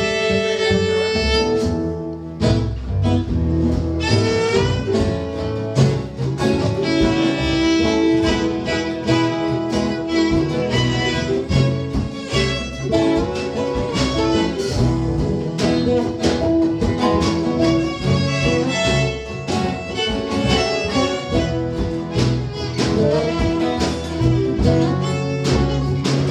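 Acoustic string band playing an instrumental passage, a fiddle carrying the melody over strummed guitar.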